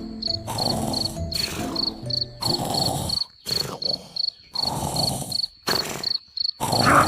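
A high, thin chirp repeating evenly about three times a second, insect-like, like a cricket. Beneath it a louder, noisy layer cuts in and out abruptly.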